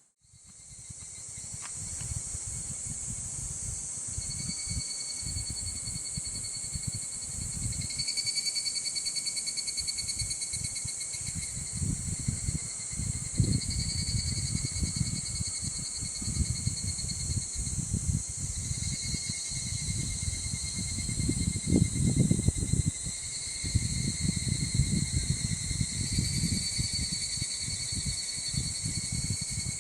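Insects chirring steadily outdoors, a high continuous hiss with a lower trill that starts and stops every few seconds. Wind buffets the microphone in low gusts, strongest about two thirds of the way in.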